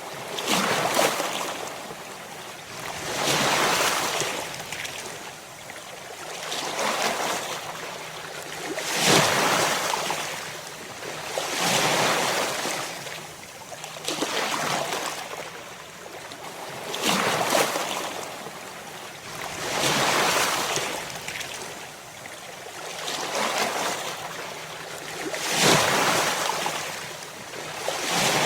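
Ocean surf: waves breaking one after another, each a wash of noise that swells and falls off, about every two and a half to three seconds.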